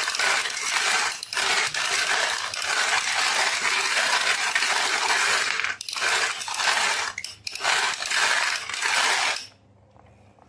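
Many marbles clattering and rolling down a marble run, a dense rattling of small hard impacts with a few brief lulls, stopping abruptly near the end.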